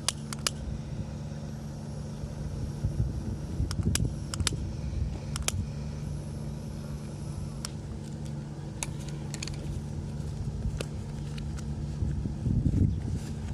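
A steady low engine hum that swells twice, with scattered sharp clicks and taps over it.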